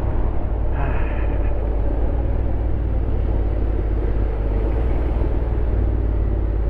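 Honda X-ADV 750's parallel-twin engine running under way, a steady low drone with a constant rush of noise over it, on a ride.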